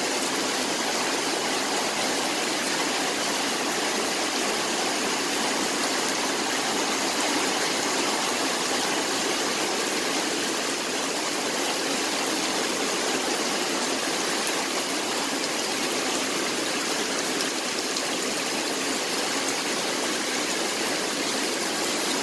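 Heavy hurricane rain pouring down steadily, a constant even rush of water without a break.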